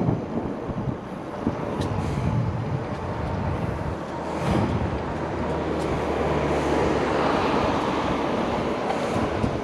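Traffic on a nearby highway: a steady rushing of tyres and engines that swells as vehicles pass in the second half.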